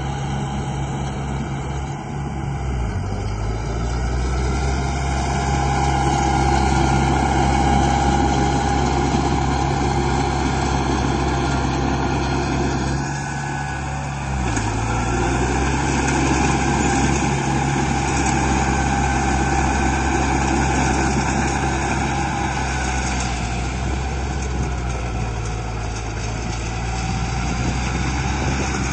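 Steady engine-like drone of construction machinery at work, with its pitch dipping briefly twice: a few seconds in and about halfway through.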